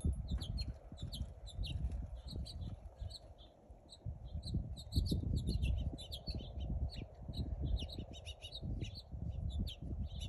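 Many small songbirds chirping, short rapid high chirps overlapping throughout. Wind buffets the phone microphone in gusts underneath, a low rumble that is the loudest sound.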